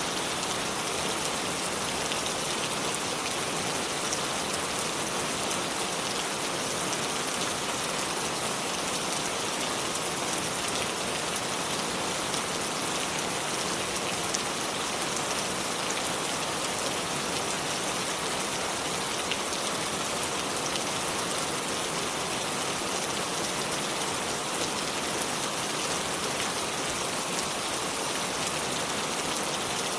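Shallow river water flowing over stones: a steady, even rush of water with fine splashing.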